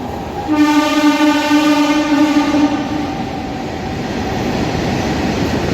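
Train horn sounding one long steady blast of about two and a half seconds, starting about half a second in, over the continuous rumble of a train running on the rails.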